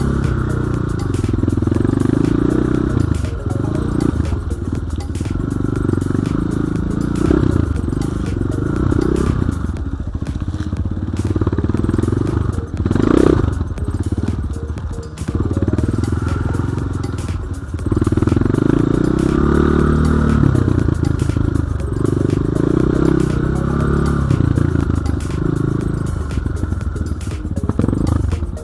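Enduro dirt bike engine revving up and down while riding, its pitch rising and falling over and over with the throttle and gear changes. There is a short louder burst about halfway through.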